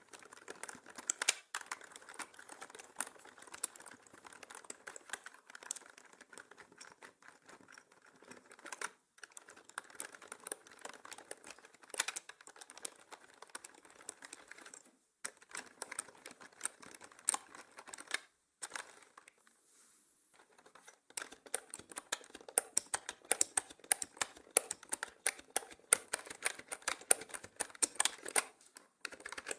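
Typing on a mechanical keyboard: a steady run of key clicks with a few short breaks, then a pause of about two seconds about two-thirds of the way through, after which the typing comes back louder and busier.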